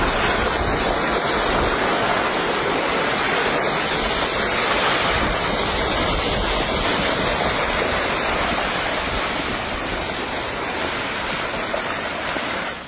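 Steady rushing noise of rough water and wind, running without a break.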